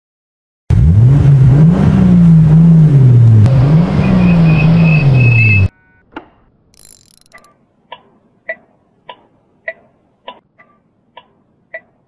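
Car engine revving, its pitch rising and falling, for about five seconds before it cuts off abruptly. Then a series of short pitched ticks, about one every half second.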